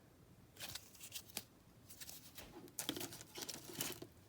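Faint tearing and crinkling of a baseball card pack's wrapper being opened, with short rustles of cards being handled, getting busier in the second half.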